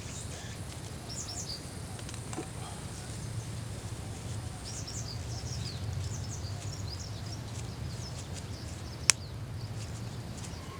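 Outdoor ambience of small birds chirping in scattered short calls over a steady low hum, with a single sharp click about nine seconds in.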